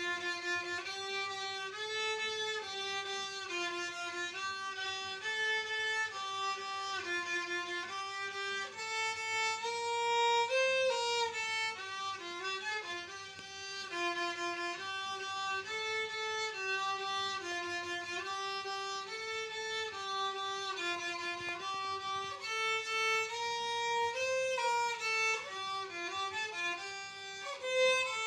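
Solo violin playing a slow melody of held notes that move up and down in small steps.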